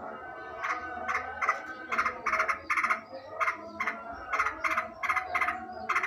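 Yellow-vented bulbul (trucukan) calling: a run of short, bright chattering notes, two to three a second, over a fainter steady background.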